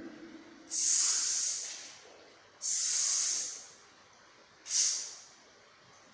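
A woman voicing drawn-out hissing consonant sounds, three separate breathy hisses like "sss" or "shh", each under about a second and a half long, as isolated phonics sounds for children to repeat.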